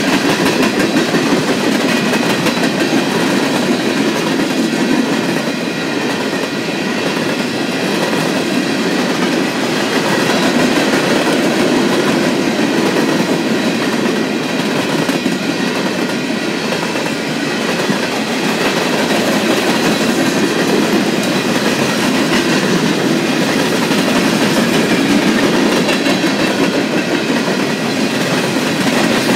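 Empty open-top coal hopper cars of a freight train rolling past close by: steel wheels clacking over the rail joints under a steady rumble and rattle, with a faint steady high ringing above it.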